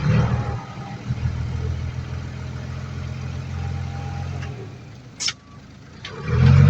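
Heavy diesel earthmoving machinery running: a low engine drone that starts abruptly, holds steady, then fades about four and a half seconds in. There is a brief sharp high-pitched sound about five seconds in, and the engine comes back loud near the end.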